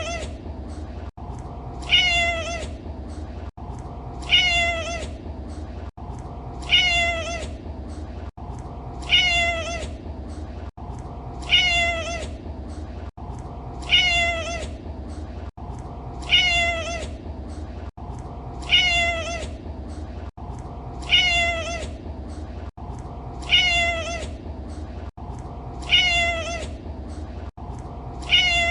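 A domestic cat's meow, the same short call played on a loop about every two and a half seconds, each one falling in pitch, over a steady low hum. Between the calls the background cuts out briefly where the loop restarts.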